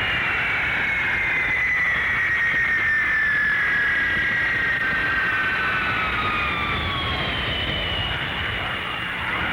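Boeing 707 jet airliner flying past, with its engines' whine falling slowly in pitch as it goes by over a steady rushing jet noise.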